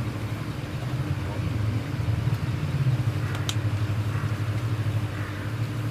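Car engine running steadily, heard from inside the cabin as a constant low hum with an even tone over it.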